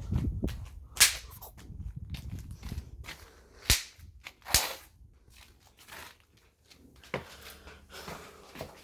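A few sharp clicks or snaps, the loudest about a second in and two close together around three and a half to four and a half seconds in, over a low rumble.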